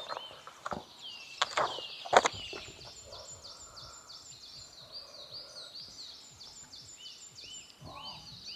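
Small birds chirping: many short, high calls that rise and fall, repeating several times a second. A few sharp knocks sound in the first two seconds or so.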